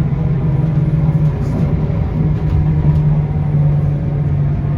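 Scania K230UB city bus's five-cylinder diesel engine running steadily with a low hum, heard from inside the cabin along with road noise.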